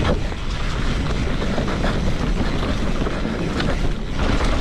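Wind rushing over the microphone and the mountain bike's knobby tyres rolling over a dirt trail, with scattered knocks and rattles from the bike over bumps and roots.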